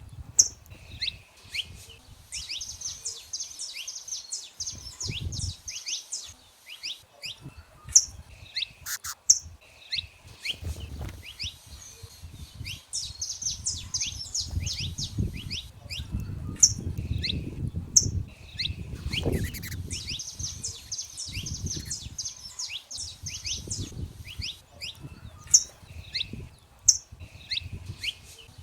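Saffron finches singing: many sharp high chirps, and a buzzy trilled phrase that comes back about every six seconds. An intermittent low rumble lies underneath.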